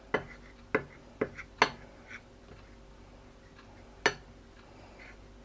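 A utensil clinking against a bowl as flour and water are mixed into a batter paste: four sharp knocks in the first two seconds, then one more about four seconds in.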